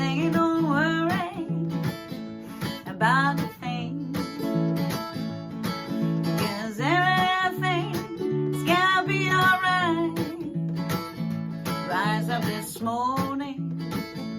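A woman singing a slow melody in phrases over a steadily strummed acoustic guitar playing simple major chords.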